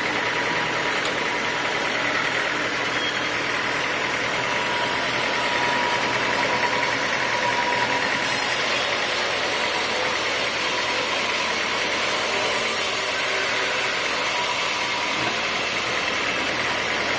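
Homemade sawmill machinery running steadily with an engine drone, and a brighter hiss added from about eight to fifteen seconds in.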